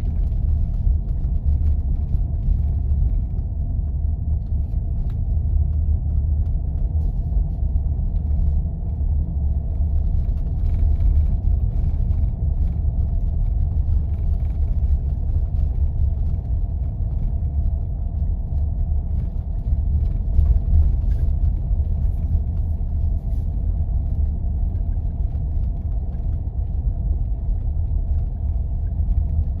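4x4 vehicle driving on snow-covered roads: a steady low rumble of engine and tyres, with faint scattered ticks over it.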